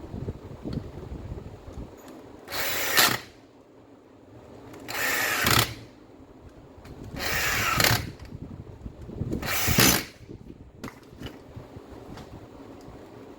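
A power tool run in four short bursts, each building up for under a second before cutting off sharply.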